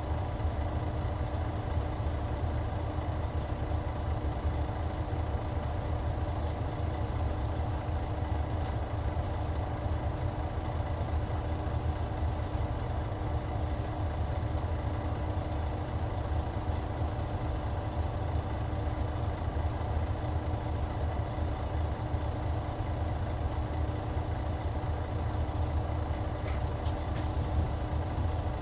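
Hyundai D6CC Powertec 380 inline-six diesel engine of a Hyundai Universe Comfort coach running steadily at an even engine speed: a deep, unchanging low rumble with a faint steady hum above it.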